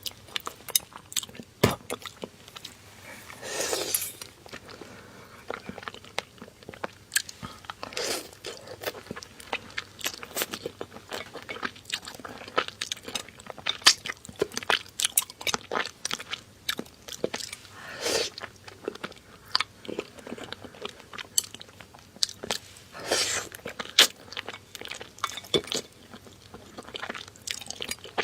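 Close-miked mouth sounds of eating seafood: steady chewing and crunching with many sharp, clicky bites, and a few longer, louder bites spread through.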